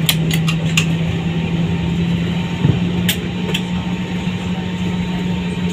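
Airliner cabin noise after landing: a steady low drone over a hiss, broken by a few sharp clicks in the first second and twice more about three seconds in.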